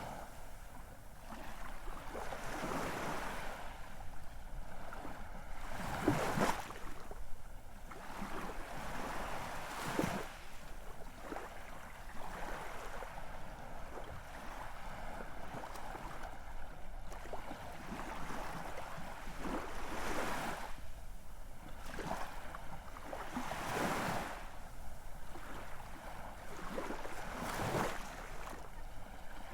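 Ocean surf: a continuous wash of waves, with a louder wave surging in every few seconds.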